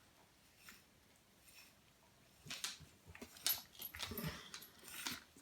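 A dog making a few short sounds, starting about two and a half seconds in, mixed with short rustling and clicking noises.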